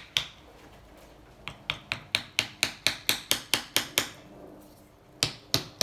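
Hammer blows driving a wooden wedge between the seized cylinder and crankcase of a Honda C70 engine to force the stuck cylinder off. There is a single blow at the start, then a quick run of about four blows a second for two and a half seconds, then two more blows near the end.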